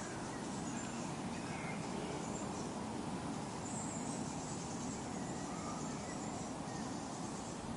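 Forest ambience: faint, scattered bird chirps over a steady background of low rustle.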